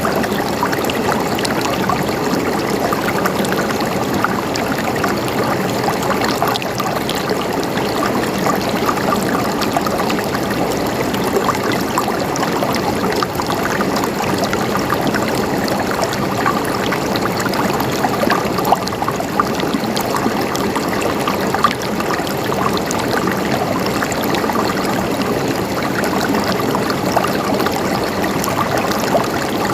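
Running water gurgling in a steady flow, with many small splashes and drips over the top.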